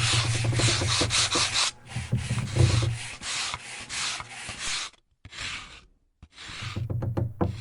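Back-and-forth abrasive rubbing on the wood of a classical guitar, in quick close strokes at first, then slower separate strokes with short pauses.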